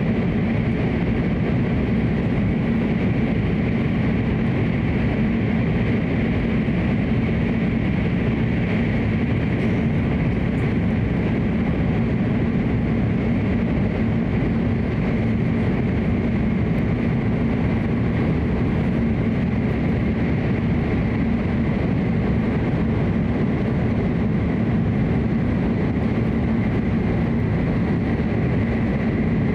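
Cabin noise of a Hokuriku Shinkansen train running at steady speed, heard inside the passenger car: a steady low rumble with a rushing hiss over it.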